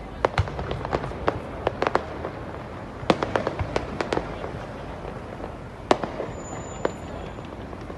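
Fireworks display: a rapid, irregular run of bangs and pops from bursting shells, thinning out in the second half, with a sharp loud bang about six seconds in.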